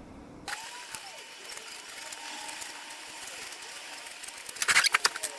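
A quick run of sharp mechanical clicks, like a ratchet, a little over four and a half seconds in, against quiet workshop sounds.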